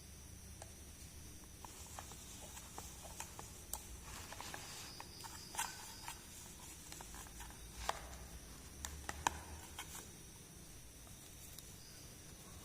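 Light, irregular clicks and taps of small plastic toys and packaging being handled, from about two seconds in until near ten seconds, with a few sharper clicks among them, over a faint steady hiss.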